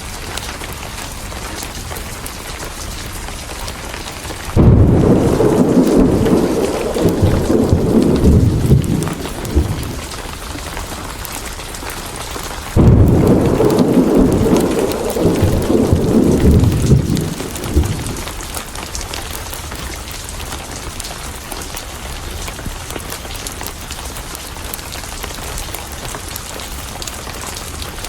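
Steady rain with two loud rolls of thunder. Each roll starts suddenly, the first about five seconds in and the second about thirteen seconds in, rumbles low for about five seconds, then fades back under the rain.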